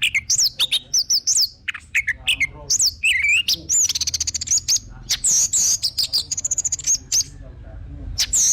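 Orange-headed thrush (anis merah) singing a fast, varied song of whistled slurs and rapid trills, with a short pause near the end.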